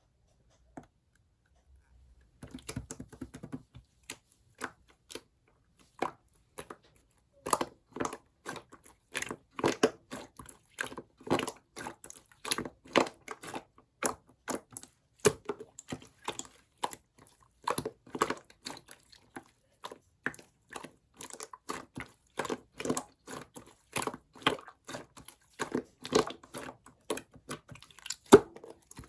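Clear slime being squished and worked, giving a dense, irregular run of sticky clicks and pops that starts a couple of seconds in.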